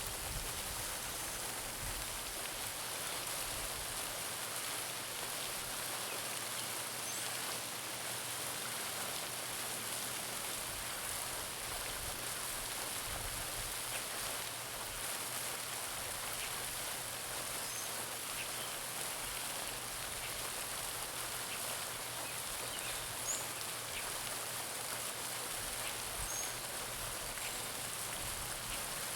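Garden pond fountain splashing steadily, its falling water making an even hiss, with a few faint bird chirps now and then.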